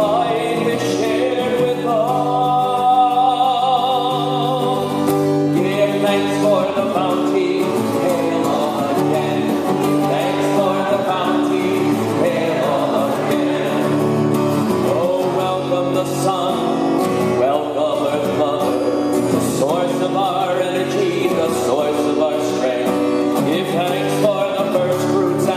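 A man singing a folk thanksgiving song for the harvest, with instrumental accompaniment.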